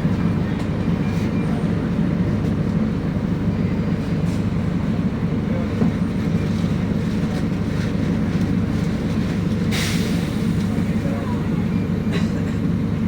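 City bus engine running with a steady low drone, heard from on board among small rattles. A short hiss sounds about ten seconds in.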